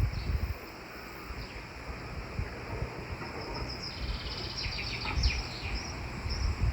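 Small songbirds chirping and trilling in quiet woodland, a burst of quick high notes starting about halfway through, over a soft steady outdoor hiss.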